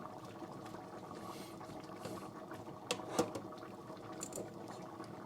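Faint bubbling of a pot simmering on the heat, with two light clinks of utensils about three seconds in.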